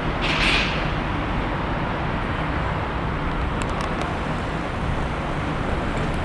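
Steady outdoor background noise, with a brief hiss about half a second in and a few faint clicks around four seconds in.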